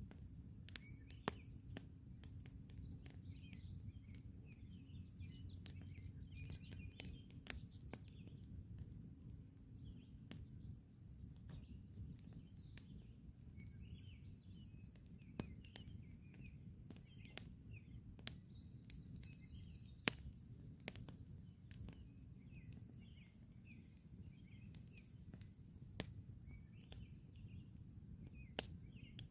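Campfire crackling faintly, with scattered sharp pops from the burning wood over a low steady rumble; the loudest pops come about a second in and about two thirds of the way through. Small birds chirp on and off in the background.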